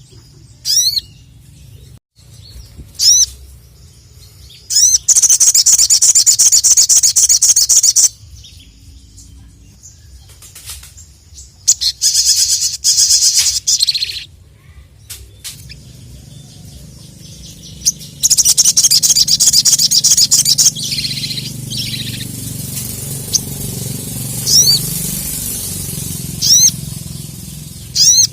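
Sogon (ruby-cheeked sunbird) singing: a few short, sharp sweeping notes and three loud rapid trills of two to three seconds each, the trills being the loudest part.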